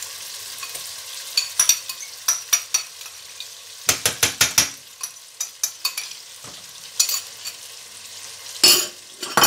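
Mutton and masala frying in a stainless steel pan with a steady sizzle, while a metal spoon stirs through it and clacks against the pan. There is a quick run of clacks about four seconds in, and the loudest knocks come near the end.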